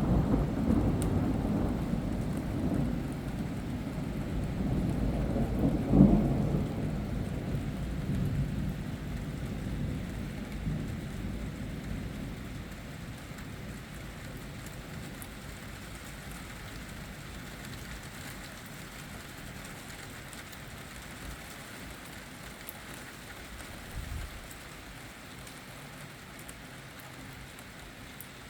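Thunder rumbling loudly, with a sharp crack about six seconds in, then dying away over several seconds. Steady rain falls throughout and is all that remains near the end.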